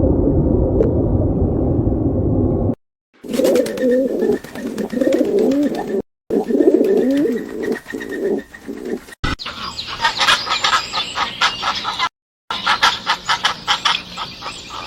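Separate animal clips cut together with brief silences: a low rumbling noise, then pigeons cooing with wavering, warbling calls, then quick high chirps with rapid clicking.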